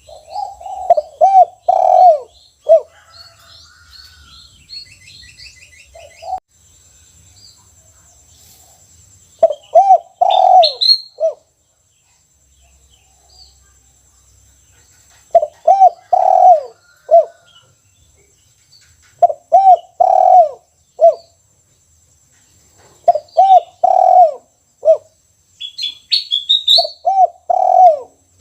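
Spotted dove (tekukur) cooing, the 'kuk 1' song of a caged bird in full voice: about six phrases of several low coos each, repeated every few seconds. Faint higher chirps of other small birds come in between.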